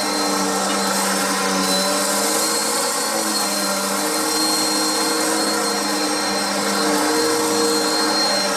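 Upright vacuum cleaner running steadily, a loud motor hum with a thin high whine over the rush of air.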